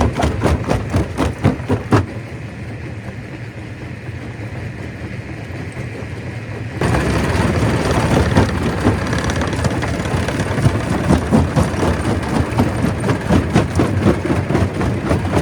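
Stone crusher at work: a dense, rapid clatter of rock being broken and knocking about, over the low running noise of the machine. About two seconds in the clatter drops to a quieter rumble, and about seven seconds in it comes back loud all at once.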